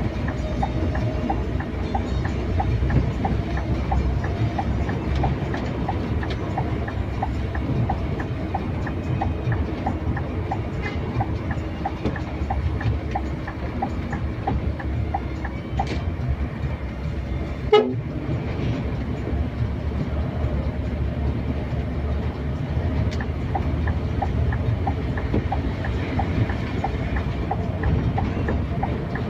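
Scania K410iB coach running on the road: a steady low rumble with a regular light ticking about twice a second, and one sharp click past the middle.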